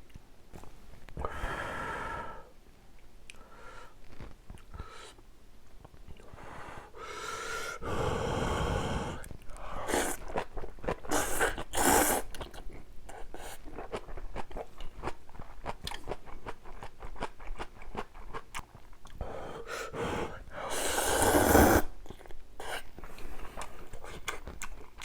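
Close-miked eating of spicy ramyun: noodles slurped in four long pulls, about a second in, around eight and twelve seconds, and near twenty-one seconds, with wet chewing and mouth clicks in between.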